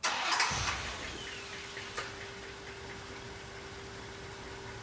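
Rolls-Royce Corniche V8 engine starting and settling into a steady idle, with a thin steady hum joining about a second in. Its muffler has just been rewelded to a new bracket, and there is no rattle.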